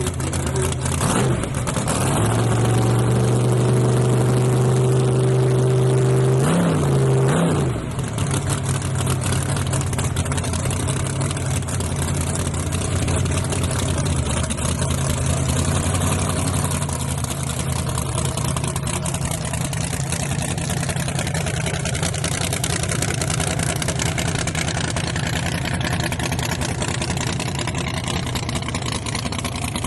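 A drag-racing S10 truck's engine held at a steady high rev for about five seconds, then dropping off sharply about eight seconds in and settling to a lower, uneven running sound.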